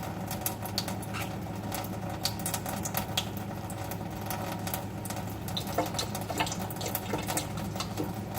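Baby green-cheeked conure bathing, water splashing and spattering in many small irregular ticks and drips over a steady low hum.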